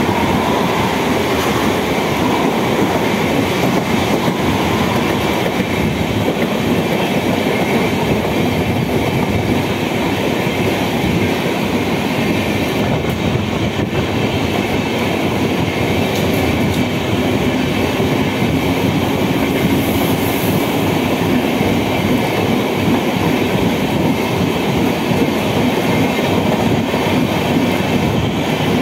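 Mumbai suburban local train running, heard through its open doorway: a steady, loud rumble and clatter of wheels on rails, mixed with the rush of a long passenger train's coaches passing on the adjacent track.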